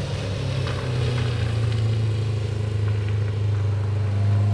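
Engine of a John Deere motorcycle running at a steady speed, holding an even pitch.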